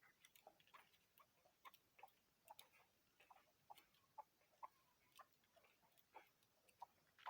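Faint chukar partridge sounds: soft, brief clucks and clicks scattered irregularly, a few a second.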